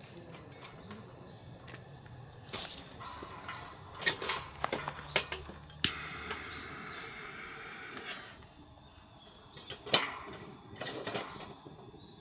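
Scattered sharp clicks and knocks of objects being handled, with a soft hiss for about two seconds near the middle. The loudest knock comes about ten seconds in.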